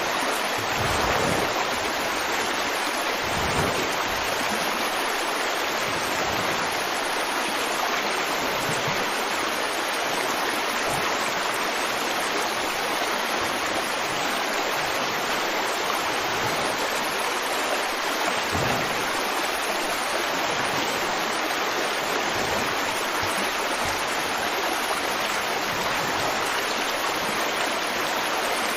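River water flowing and rushing steadily over rocks, an even splashing hiss with occasional low surges.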